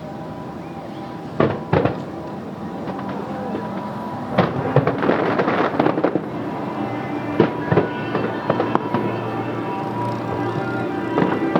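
Fireworks shells bursting: two sharp bangs early, then a quick run of many pops and bangs in the middle and a few more later, over steady background music.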